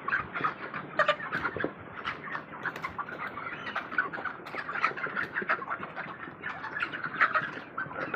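A large flock of farmed chickens calling together: a dense, continuous chatter of many overlapping short calls with no pause.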